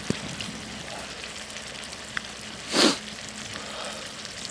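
Food sizzling in a pan over a campfire, with small crackles and ticks throughout and a short louder hiss nearly three seconds in.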